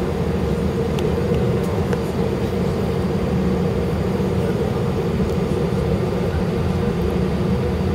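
Cabin noise inside an Airbus A319 taxiing: a steady low rumble from the engines at idle and the cabin air, with a constant hum over it.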